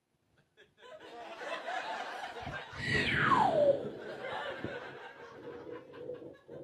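A theatre audience laughing: the laughter starts about a second in, swells to its loudest around three seconds and slowly dies away. Near the peak a high whistle-like sound glides steeply down in pitch.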